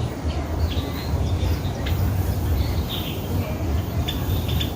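Captive birds chirping and calling, short high chirps scattered through, over a steady low rumble.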